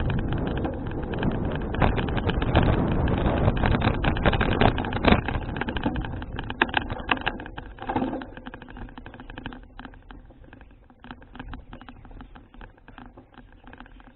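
Wind buffeting a bicycle-mounted action camera's microphone while riding, with rattling clicks, dying down about eight seconds in to quieter scattered ticking as the bike slows.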